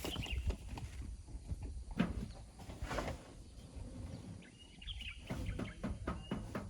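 Irregular scraping and knocking from hand tools working sand and rock, the sharpest knocks about two and three seconds in. A few short high bird chirps come at the start and about five and six seconds in.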